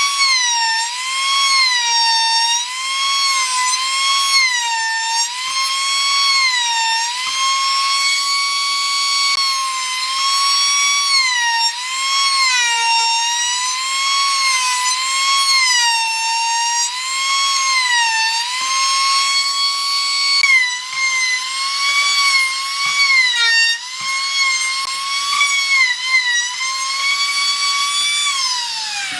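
A high-speed electric power tool whining as it works wood. Its pitch dips again and again as the tool is pressed into the cut and recovers as the pressure eases. Near the end the motor is switched off and winds down, its pitch falling away.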